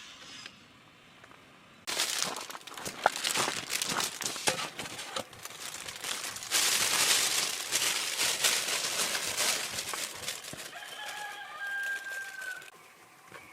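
A rooster crowing once near the end, one long, steady call, after several seconds of crackling, rustling noise.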